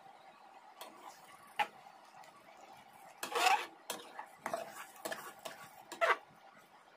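A utensil clinking and scraping against a cooking pot as chicken curry is stirred: a handful of separate knocks, with one longer scrape about halfway through.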